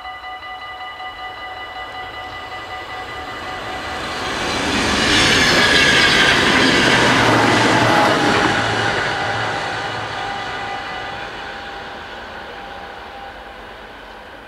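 Level-crossing warning bells ringing steadily while an electric passenger train passes over the crossing at speed. The train noise swells about four seconds in, is loudest for a few seconds, then fades away.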